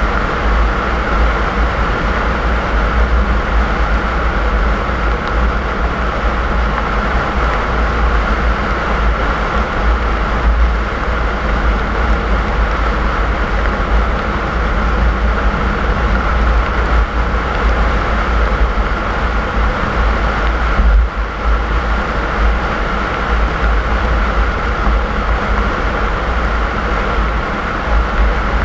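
Steady driving noise of a car on a snowy road: a continuous low rumble of engine and tyres with road hiss. The level dips briefly about three quarters of the way through.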